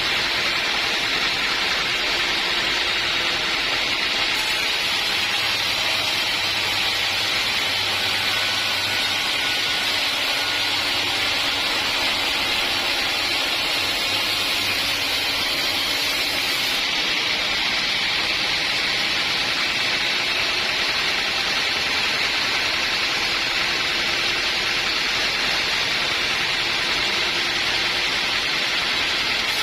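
Sawmill machinery running: a steady, unbroken noise with no starts, stops or separate strikes.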